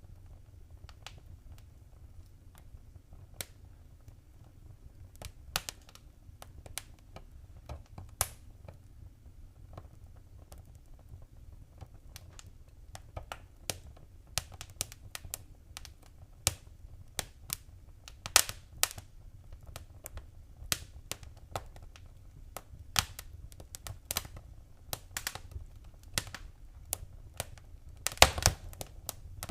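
Wood fire crackling in a fireplace: irregular sharp pops and snaps over a low steady rumble, growing busier, with a quick run of loud crackles near the end.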